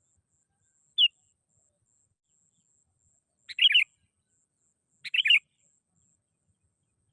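Sooty-headed bulbul (kutilang) calling: one brief note about a second in, then two short bubbly phrases about a second and a half apart.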